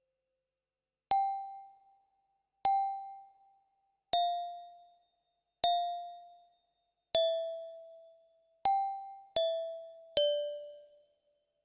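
Glockenspiel playing a slow melody one struck note at a time: eight ringing metal notes, each fading out. They come about a second and a half apart, with the last three closer together, and the pitch mostly steps downward.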